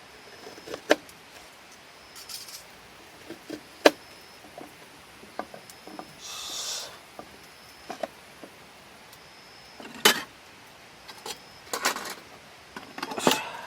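Scattered sharp clicks, taps and knocks of camp tableware and utensils being handled, with a short hissing rush about six seconds in.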